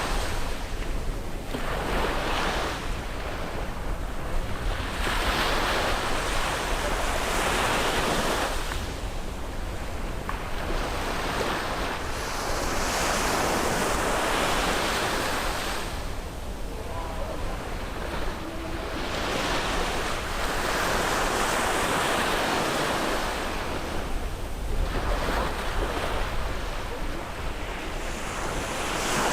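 Sea waves breaking on a beach, the wash swelling and falling back every few seconds, with wind buffeting the microphone as a low rumble.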